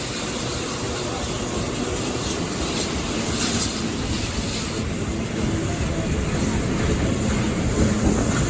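Steady running noise of a steam-hauled train heard from on board, with the rumble of wheels on the rails, getting slightly louder about halfway through.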